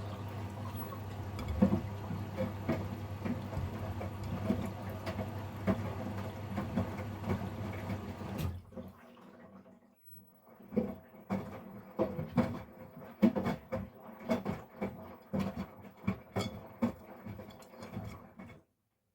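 Miele Professional PW 6065 Vario washing machine in its load-detection stage. Water runs into the drum with a steady hum until about eight seconds in. Then the drum turns and water splashes and sloshes with the tumbling load in uneven surges, until the sound stops abruptly near the end.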